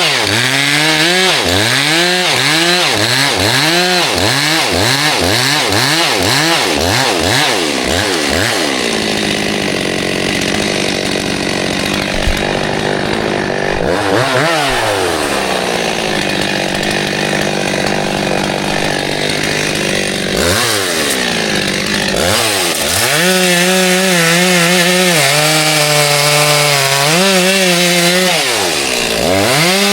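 Gas chainsaw revved in quick repeated swells, about one and a half a second, for the first eight seconds, then held at high speed with the chain cutting wood, dropping back briefly three times and picking up again.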